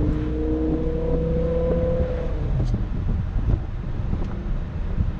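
BMW E60 M5's V10 engine pulling under light throttle, its pitch rising steadily for about two seconds, then easing off into a low drone with road and wind noise. The engine is not yet warmed up, so the revs are kept low.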